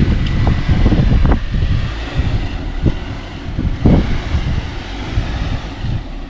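Wind buffeting the microphone over a Jeep Rubicon running at crawling pace on the rocks, with a couple of short knocks, the loudest about four seconds in.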